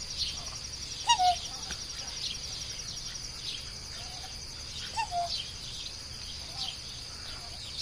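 Birds calling over a steady, high, pulsing insect trill: short falling calls every few seconds, the loudest about a second in, with repeated quick high chirps between them.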